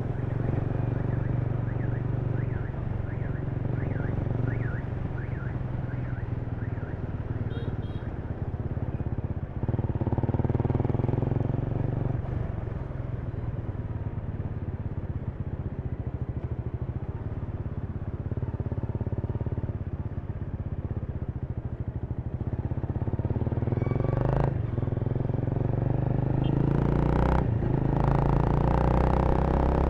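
Honda Rebel 300's single-cylinder engine running under the rider while cruising in city traffic, with a steady low note. It breaks off briefly twice near the end, then pulls harder and gets louder.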